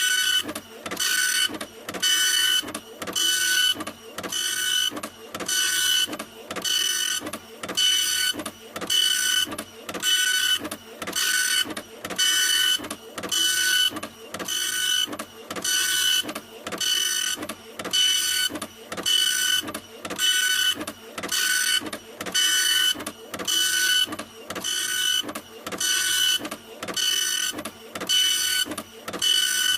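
Printer running continuously, its print head carriage sweeping back and forth in an even rhythm of about one pass a second, each pass carrying a whining motor tone.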